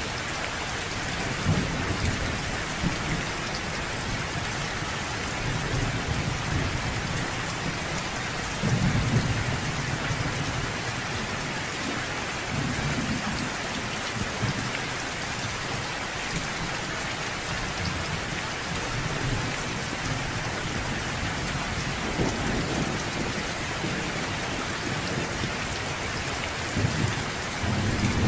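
Steady rain falling, with low thunder rumbling again and again underneath, loudest about a third of the way through.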